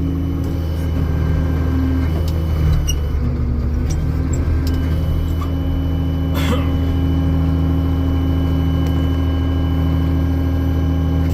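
Old Steiger tractor's diesel engine running steadily, heard from inside the cab, its pitch dipping briefly about three seconds in as it takes load. A short sharp click or knock about six and a half seconds in.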